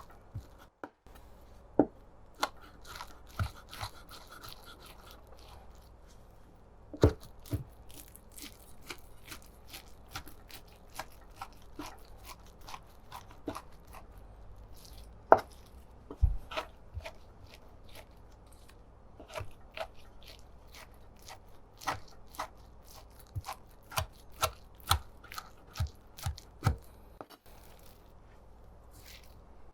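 Kitchen knife chopping on a cutting board: irregular sharp knocks, some single and some in quick runs, with a louder run near the end.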